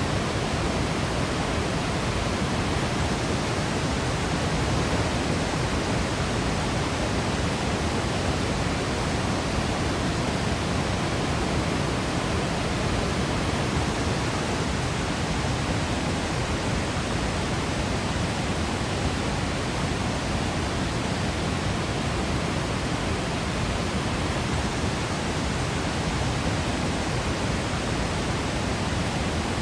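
Yosemite waterfall: a steady, even rush of falling water, strongest in the low end.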